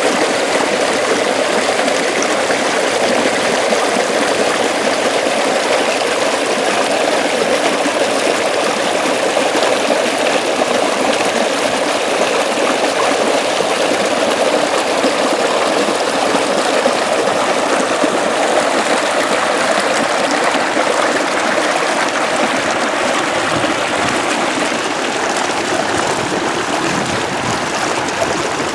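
Water flowing steadily along an irrigation ditch, an even rushing sound.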